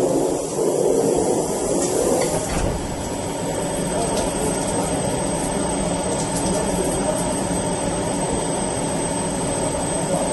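MATEC 30 HV CNC machining center running, a steady mechanical noise with a thin high whine. It is louder and rougher for the first two and a half seconds, then settles to an even hum.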